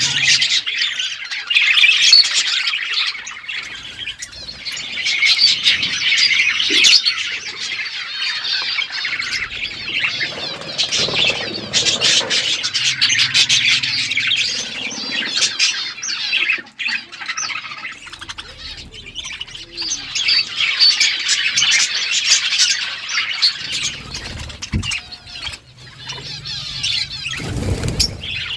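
A flock of budgerigars chattering, with continuous warbling chirps and squawks. A brief loud low rumble comes near the end.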